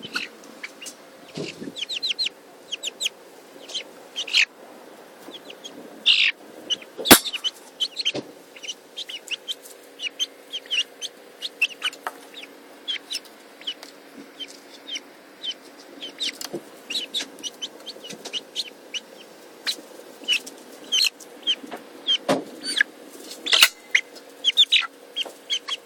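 Three young chicks peeping and chirping almost without pause, short high-pitched calls several a second, with a few sharp knocks among them.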